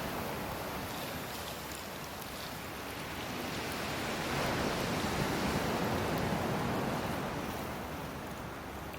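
Hardwood firewood burning in an open fire stand: a steady rushing of flames that swells about halfway through and eases off again, with a few faint crackles.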